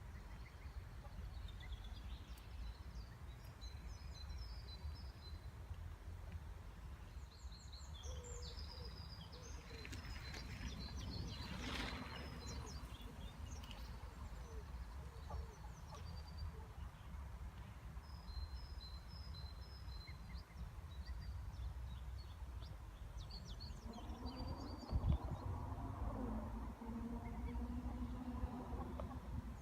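Outdoor ambience: a steady low rumble under small birds chirping in short, high trills. About 24 seconds in, lower, pitched calls join in, typical of ducks calling.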